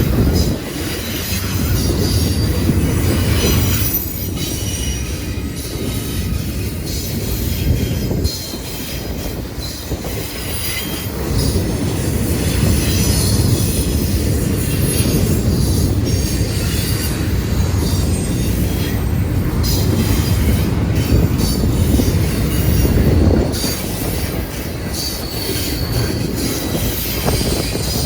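Freight train cars rolling past, a continuous rumble of wheels on rail with short high-pitched wheel squeals and some clickety-clack over the rail joints.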